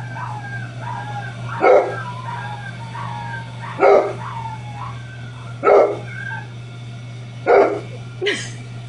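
A dog barking loudly five times, about every two seconds, over high thin puppy whimpers and yips playing from a phone's speaker.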